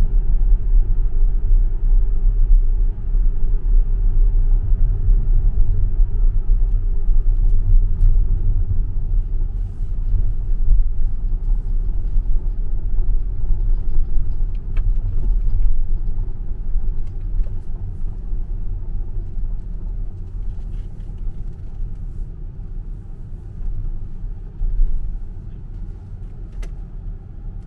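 Low, steady tyre and road rumble of an electric Tesla car driving through a tunnel, with no engine note. The rumble eases and gets quieter over the last several seconds.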